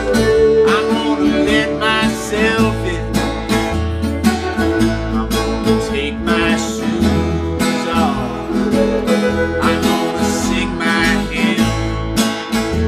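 Americana blues band playing an instrumental passage: strummed acoustic guitar and bass under a lead line that bends and wavers in pitch.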